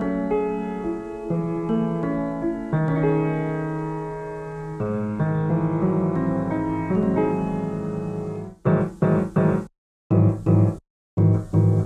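Sampled 1928 Steinway Scoring Piano playing sustained chords. About 8.5 seconds in, it switches to short, detached chords broken by brief full silences.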